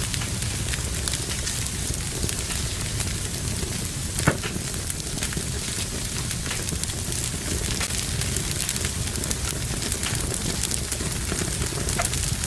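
Wood fire burning in a fireplace, crackling steadily with many small pops and one louder pop about four seconds in.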